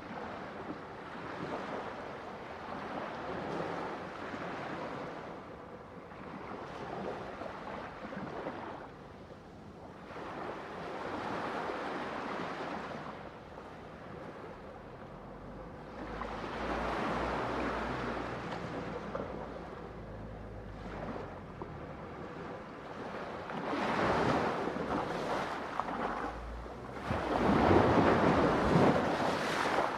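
Ocean waves breaking on a shore, the surf swelling and receding every few seconds, with the two biggest breakers in the last few seconds.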